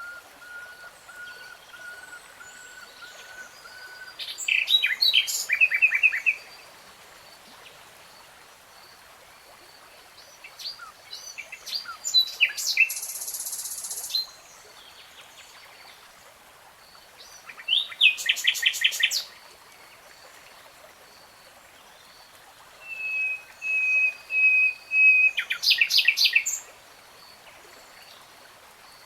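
A songbird singing in separate phrases with pauses between them. The phrases mix long steady whistled notes with fast trills of rapidly repeated notes, and one short buzzy note.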